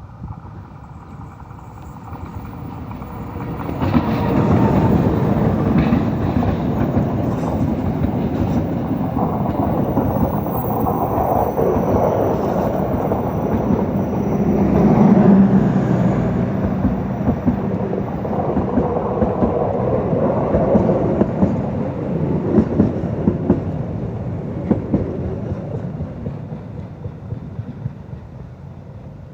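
A passenger train hauled by a KAI CC206 diesel-electric locomotive passing by. The noise builds sharply about four seconds in and is loudest around the middle. In the later part the wheels click over the rail joints, and the sound fades near the end.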